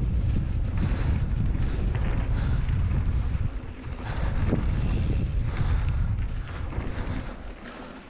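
Wind buffeting the microphone on a mountain bike riding at speed, over a deep rumble from the trail. The noise eases briefly twice.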